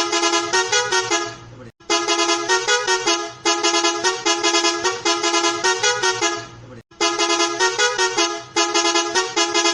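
A looped horn-like tune of quick pulsing notes, like a musical vehicle horn. It cuts off briefly about two seconds in and again about seven seconds in, then starts over the same way.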